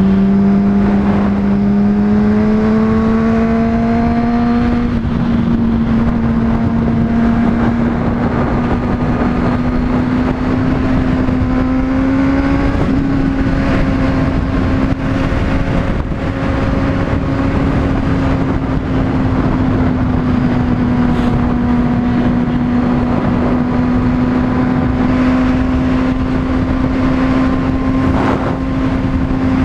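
Honda CBR600RR inline-four engine running steadily while riding, its pitch rising slowly over the first dozen seconds and then holding, with wind rushing over the microphone.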